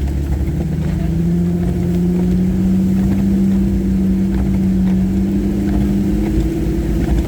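Jeep engine running steadily under way on a dirt trail, its note rising slightly about a second in and then holding even, over a low rumble.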